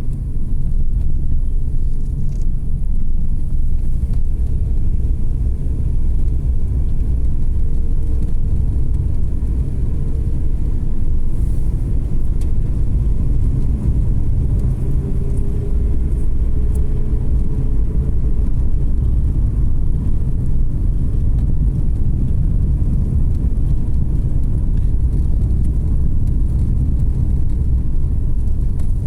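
Car driving on a road: steady low rumble of tyres and engine, with a faint engine tone that drifts gently up and down.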